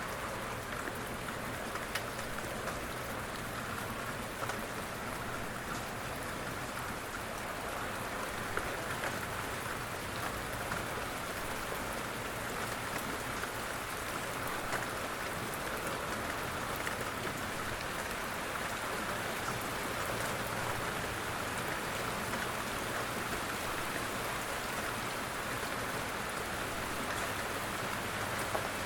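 Steady rain falling, with scattered sharper drop hits over an even hiss.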